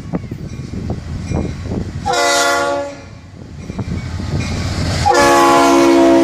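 Air horn of the lead locomotive, FEC EMD SD40-2 #711, sounding one blast of about a second and then a longer, louder blast held to the end, over the rumble of the passing EMD diesel locomotives.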